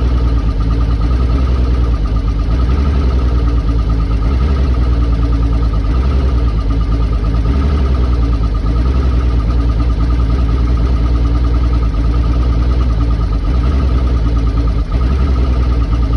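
2001 Mercury 225 Optimax V6 two-stroke direct-injection outboard idling roughly, its idle speed rising and falling unevenly, a symptom the owner gives as a rough idle jumping up by about 300 rpm.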